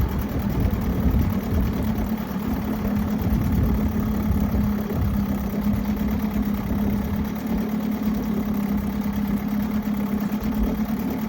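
Mercury 7.5 hp two-stroke outboard motor idling steadily, with an even drone.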